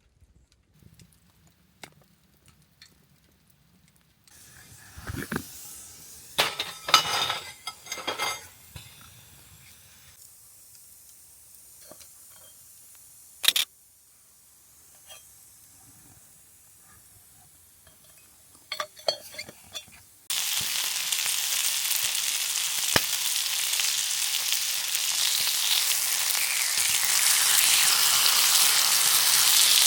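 A few clinks and knocks of cookware being handled, then about two-thirds of the way in food drops into a hot pan and starts frying with a loud, steady sizzle.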